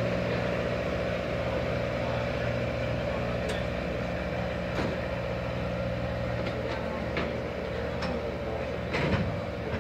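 Steam-hauled passenger train pulling away, heard from the platform: a steady mechanical hum with scattered sharp clanks from the cars rolling over the track, and a louder knock about nine seconds in.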